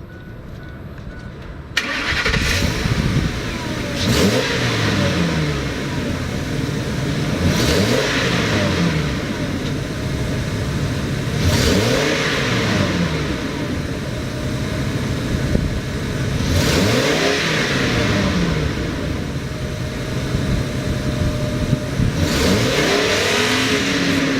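2004 Ford F-550 engine starting about two seconds in, then idling between revs: the engine is blipped five times, each rev rising and falling in pitch.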